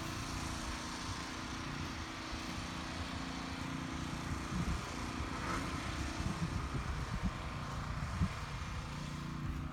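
An engine running steadily, a low hum with an uneven low rumble beneath it.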